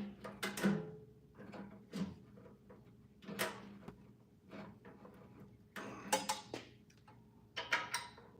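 Metal clanking: a loud clank, then a string of sharper clinks and knocks with a brief ringing after several of them, as tools and metal parts are handled and set down.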